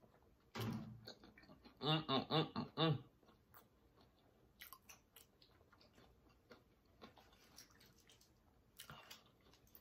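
Close-miked mouth sounds of a person eating: soft chewing and lip clicks, a short burst about half a second in, and a quick run of five loud voiced sounds from the eater about two seconds in, the loudest part.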